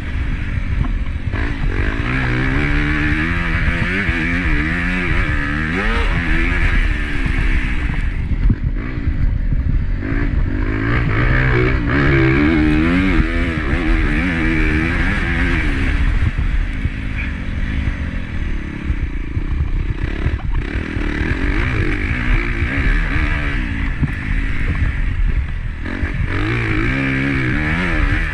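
Honda CRF250 single-cylinder four-stroke motocross bike engine revving up and falling back over and over as it is ridden hard, with wind noise on the microphone.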